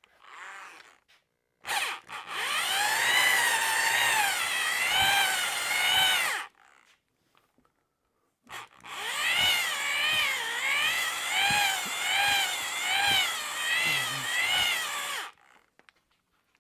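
Electric drill spinning a cylinder hone in an outboard engine's cylinder bore, run twice for several seconds with a short pause between. Its whine wavers up and down in pitch as the hone works the bore.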